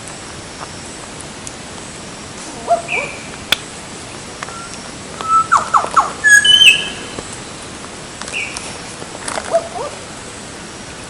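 Wild birds calling in short, scattered calls. There are a few brief notes early on, a quick run of falling calls and sharp whistled notes about five to seven seconds in, and more brief calls near the end.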